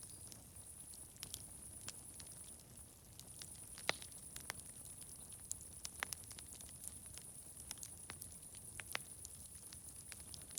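Fire crackling with irregular sharp pops and snaps, a few louder ones about 4, 6 and 9 seconds in, over a steady high hiss.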